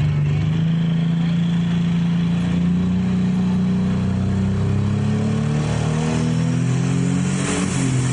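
Pro Stock pulling tractor's turbocharged diesel engine running hard. Its pitch climbs slowly over the first few seconds, then sags and drops about halfway through. A short hiss comes near the end.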